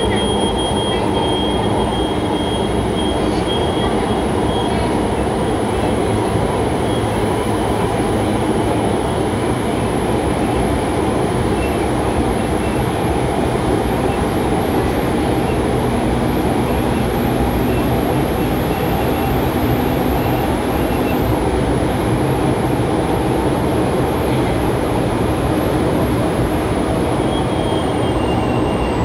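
MTR SP1900 electric multiple-unit train running between stations, heard from inside the car: a steady rumble of wheels and running gear. Over it is a thin high whine that climbs slightly and then drops away near the end.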